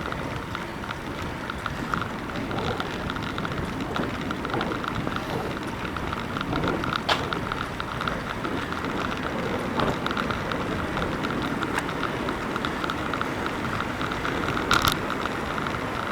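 Bicycle riding along: steady tyre and wind noise, with fine rapid ticking and a few sharp clicks.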